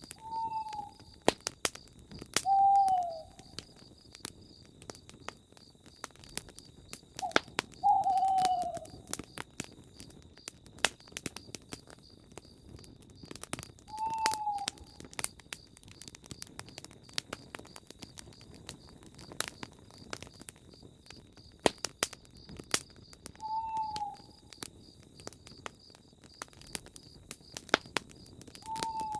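An owl hooting: six short single hoots, each dropping slightly in pitch, spaced several seconds apart. Sharp pops and crackles of a campfire run between them, over a faint steady high insect trill.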